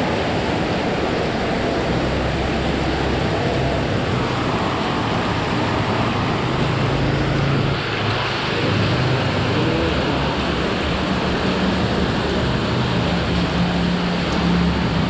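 Heavy rain pouring steadily, with the low hum of vehicle engines passing through it.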